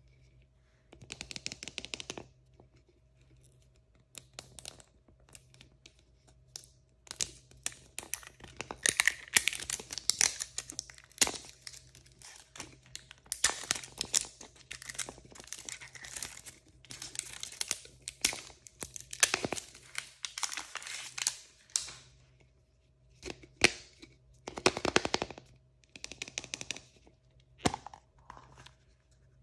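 Plastic and foil blind-bag packaging crinkling and being torn open by hand, in repeated bursts of rustling with sharp crackles and short pauses between.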